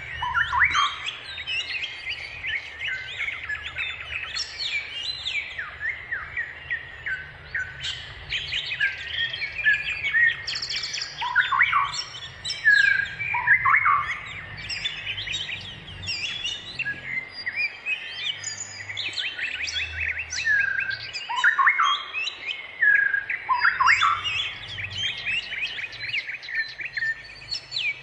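Birds calling without a break: a busy run of chirps, quick trills and short falling whistled notes, several overlapping.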